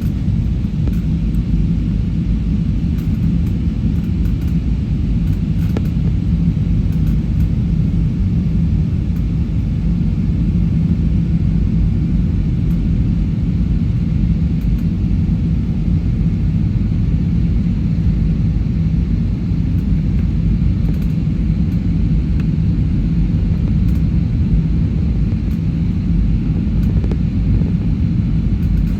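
Airliner cabin noise: a steady low rumble of engines and airflow, with a constant hum running through it.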